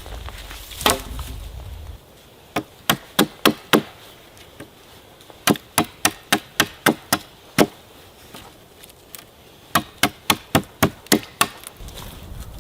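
Quick strikes on wood, like chopping with a hatchet: one blow, then three fast runs of about five, eight and seven strikes, three or four a second.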